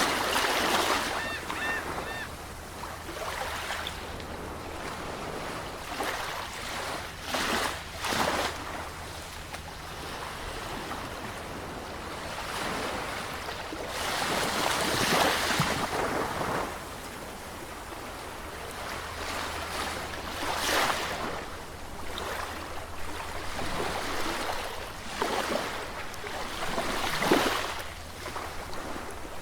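Sea waves breaking in surges every few seconds over a steady wash of surf.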